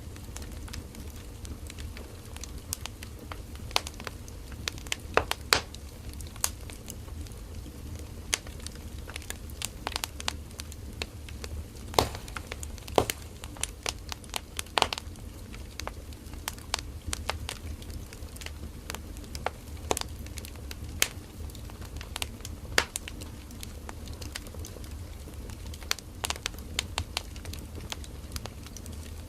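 Firewood burning in a campfire: irregular sharp crackles and pops, a few at a time, over a steady low rumble of the flames.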